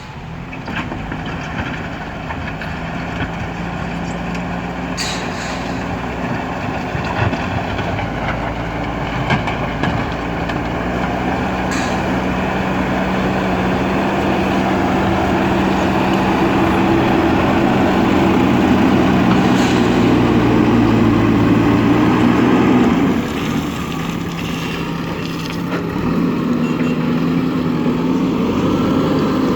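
Backhoe loader's diesel engine working under load, growing louder over most of the stretch and then easing off abruptly about three quarters of the way through. A few sharp clanks break through it.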